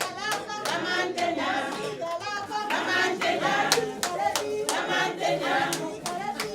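A group of people singing together with rhythmic hand clapping.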